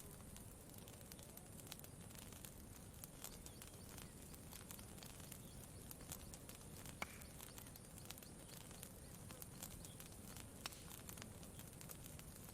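Campfire crackling softly, with scattered sharp pops, the loudest about seven seconds in, over a steady low rumble.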